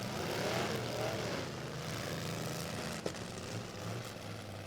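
Demolition derby pickup truck engines running, one revving up and back down in the first second, with a short knock about three seconds in.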